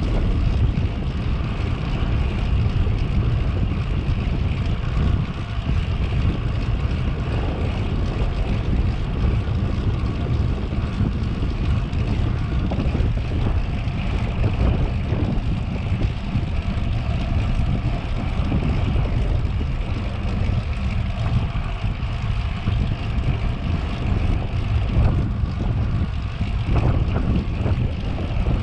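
Steady wind rumble on the microphone of a moving bicycle, with some rushing noise above it.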